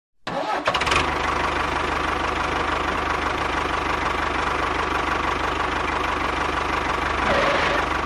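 An engine starting, with a cluster of sharp clicks as it catches, then running steadily with a fast, even low pulsing.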